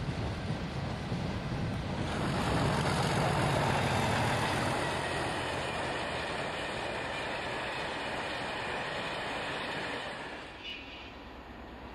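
Freight trains running past on the rails. First loaded hopper wagons roll by. About two seconds in, the sound changes to a diesel locomotive, a Class 37, passing with its wagons, a steady noise of wheels on rail. It drops away near the end.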